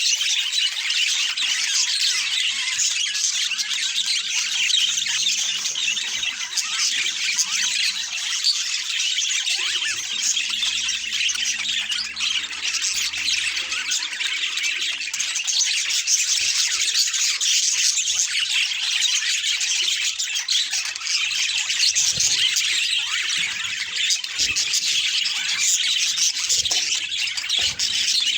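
Budgerigars chattering and warbling continuously, a dense stream of high chirps.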